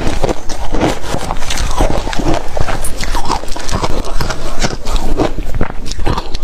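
Ice cubes crunched between the teeth close to the microphone: loud, irregular crunches several times a second, one after another.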